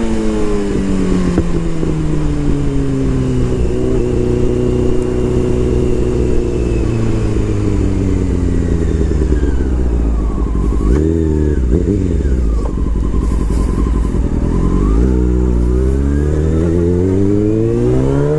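Honda CBR600 F4i inline-four motorcycle engine under way: its note falls steadily as the bike slows, jumps up and down quickly about eleven seconds in as gears change, then rises as it accelerates near the end.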